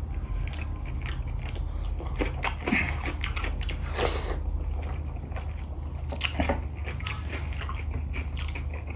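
Close-miked eating: a person chewing and smacking on a mouthful of rice and black lentil dal, with scattered small wet clicks. A low steady hum runs underneath.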